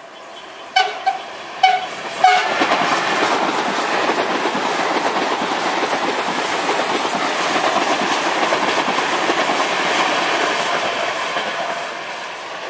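CPTM series 9500 electric multiple unit sounding its horn in three short blasts, then passing close by with the steady rumble of its wheels on the rails, fading near the end as it moves away.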